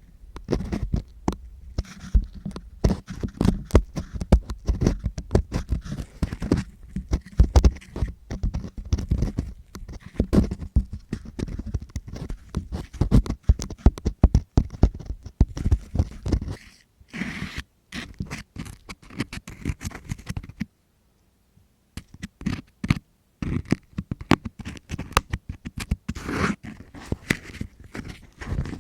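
ASMR ear cleaning: a tool scratching, scraping and rubbing right on the microphone in dense, uneven crackles. There is a pause of about two seconds about two-thirds of the way through.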